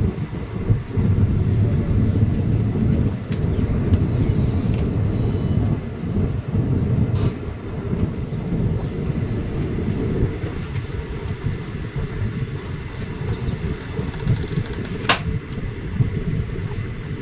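Loud low rumble of a passenger train coach running at speed, heard from the open doorway, with one sharp click about fifteen seconds in.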